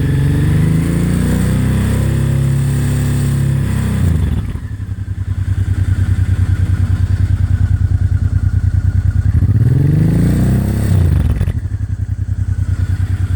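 Honda V-twin motorcycle engine held at about 4,000 RPM, dropping back to a steady idle about four seconds in; it is revved up again near the ten-second mark and let back down to idle.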